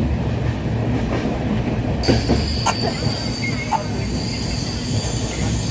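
Passenger train running along the rails, heard from aboard: a steady rumble of wheels and coach. About two seconds in, a high, steady metallic squeal from the wheels sets in, with a few sharp clicks.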